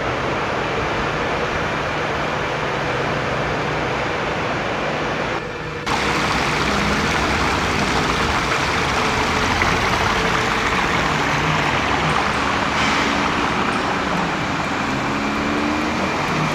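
Steady rush of floodwater pouring through, with a short break about five and a half seconds in where the recording cuts.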